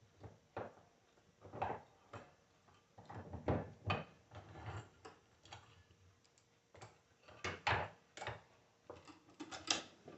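Alternator housing parts and small metal pieces being handled and fitted together during reassembly: irregular clicks, knocks and short scrapes, with a few louder knocks about 3.5 s and 7.5 s in and near the end.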